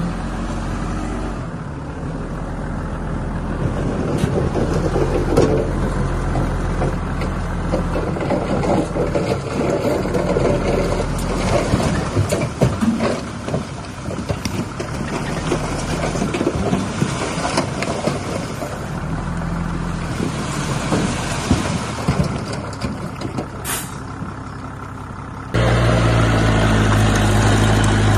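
Heavy diesel construction machinery running under load, with scraping and clattering throughout. About 25 seconds in it cuts abruptly to a louder, steady engine sound.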